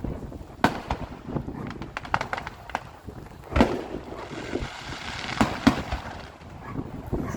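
Fireworks exploding: a string of sharp bangs and pops, the loudest about three and a half and five and a half seconds in, with a spell of crackling from about four to six seconds in.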